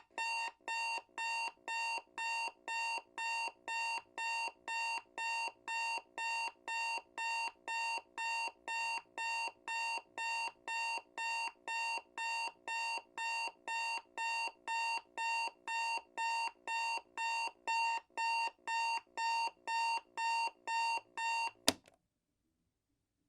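Digital alarm clock beeping: a steady, evenly spaced electronic beep at about two beeps a second. It stops abruptly with a sharp click near the end.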